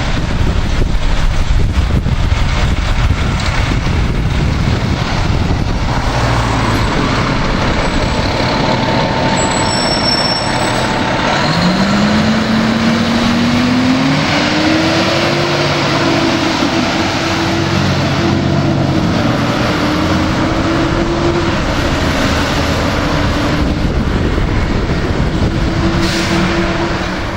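Fire department ladder truck's diesel engine running loud and steady. About eleven seconds in a siren winds up, rising in pitch over a few seconds, then holds a high, slightly wavering note.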